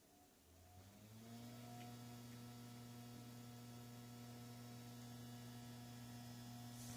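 Toshiba P300 hard drive spinning up, its low tone rising for about a second and then settling into a steady hum with several overtones, with a faint tick or two. The hum comes from the drive being misplaced in its mounting, not from a failing drive.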